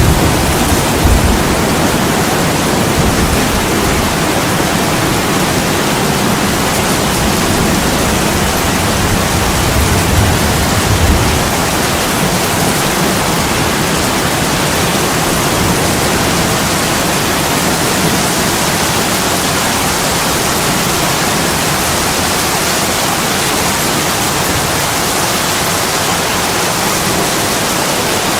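Steady heavy rain pouring onto window glass, an even hiss. Low rumbles swell in the first second and again around ten seconds in.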